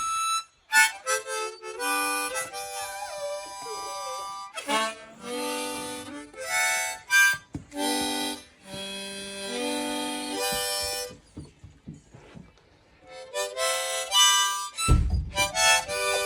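Harmonica playing chords in short blown phrases, with a puppy's wavering howl faintly joining in early on. The playing pauses for a couple of seconds past the middle, and there is a short dull thump near the end.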